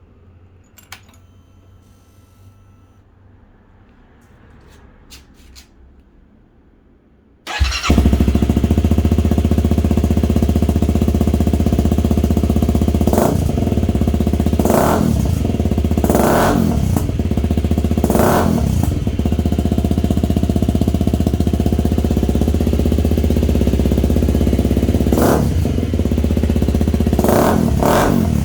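Honda CRF250L single-cylinder engine breathing through a newly fitted aftermarket muffler: quiet at first, it starts suddenly about seven seconds in and idles steadily. Several short throttle blips follow, each rev rising and dropping back to idle, more of them close together near the end.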